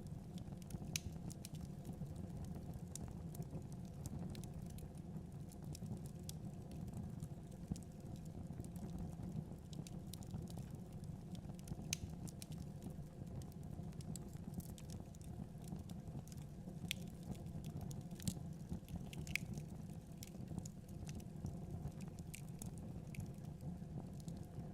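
Wood fire burning in a fireplace: a steady low noise of the flames with irregular sharp crackles and pops, a few louder snaps among them.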